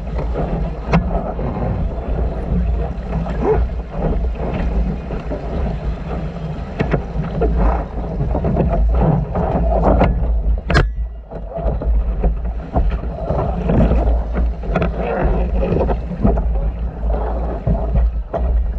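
Wind buffeting the microphone in a constant low rumble aboard a sailboat under way, with water rushing and splashing along the hull. There are scattered small knocks, and a sharp one about eleven seconds in.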